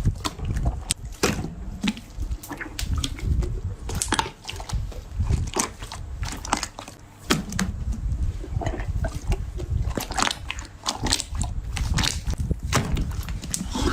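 Slime being squeezed and poked by hand, making a dense run of irregular clicks, crackles and squelching pops.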